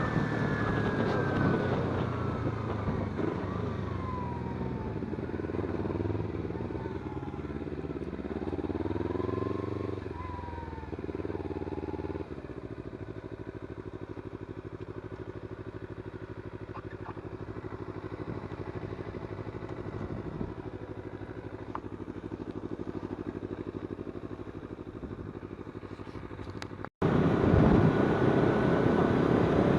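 Kawasaki Z250 parallel-twin engine running on the move, its revs rising and falling for the first dozen seconds, then a steadier, quieter run. A sudden cut near the end brings back a louder engine.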